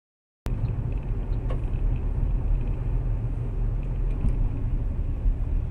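Steady low rumble of a car on the move, engine and road noise, cutting in abruptly about half a second in after dead silence.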